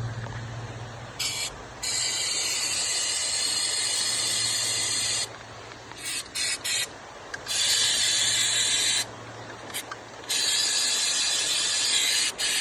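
Aerosol can of Flex Seal rubber sealant spraying in several bursts, a long one of about three seconds and shorter ones after, as it is sprayed over holes in a jet ski hull to seal them. A steady low hum runs underneath.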